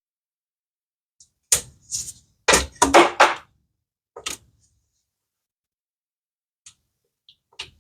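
Knocks and clatters of the engine's timing cover being worked loose and pried out by hand. A quick run of knocks comes about one and a half to three and a half seconds in, then one more knock and a few faint clicks.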